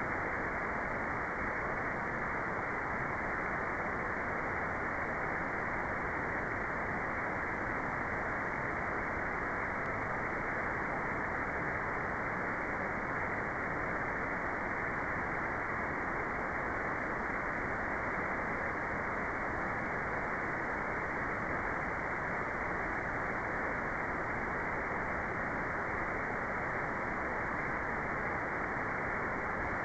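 Steady electronically generated white noise with its highs cut away, so it sounds as a muffled, even hiss that never changes.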